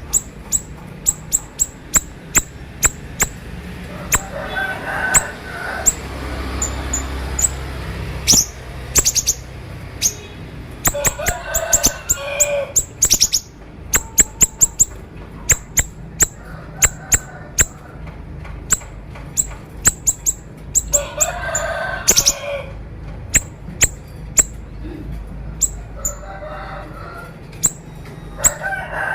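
Siri-siri songbird singing a sharp, rapid 'konslet' song: strings of short, piercing high chips with bursts of fuller, lower warbling every several seconds.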